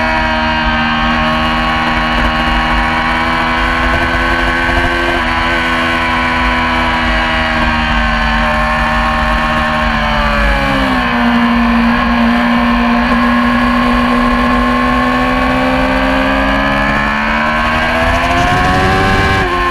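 Yamaha YZF-R6 inline-four sport bike engine running at high revs under race load. Its pitch sinks about halfway through, climbs steadily again, and drops sharply near the end.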